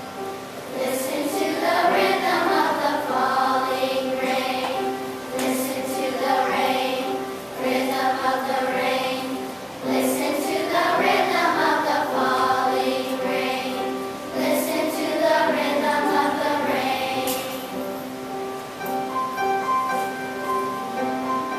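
Children's choir singing with instrumental accompaniment, in phrases of a few seconds each; near the end the voices drop away and the accompaniment carries on.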